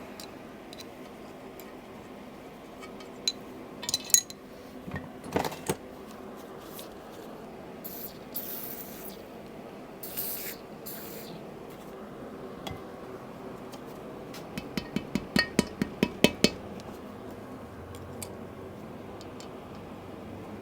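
Workshop teardown sounds over a steady background hum: metal tools and engine parts clinking and knocking, two short hisses about halfway through, and a quick run of about eight sharp clicks, roughly four a second, a little past the middle.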